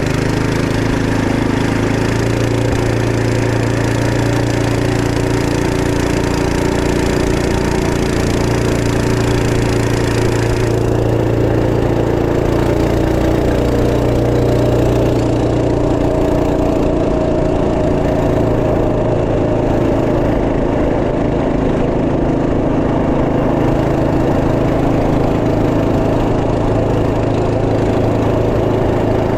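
Trail Master MB200 minibike's 212cc single-cylinder four-stroke engine running at a steady speed, with a small-engine, lawnmower-like note. A high hiss over the engine drops away about eleven seconds in.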